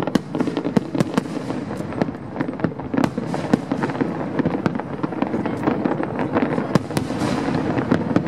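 Fireworks shells bursting in quick succession: many sharp bangs and crackles every second over a continuous din.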